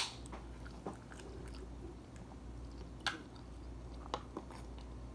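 Faint chewing and mouth sounds of a person eating fried chicken, with a few sharp small clicks and taps scattered through.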